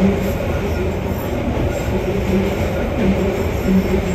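Keihan 600 series electric train running along the line, heard from on board: a steady rolling rumble of wheels on rail and running gear, with a short hum coming and going.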